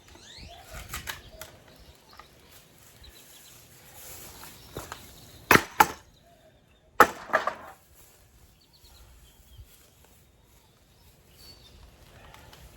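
Wooden furniture being chopped apart with a hand tool: four loud, sharp splintering strikes in two quick pairs around the middle, with fainter knocks about a second in.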